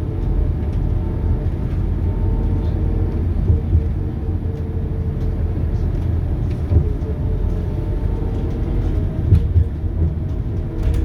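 Scania DC9 five-cylinder diesel engine of a Scania K280UB bus running with a steady low rumble and a faint whine, with small rattles and clicks scattered through.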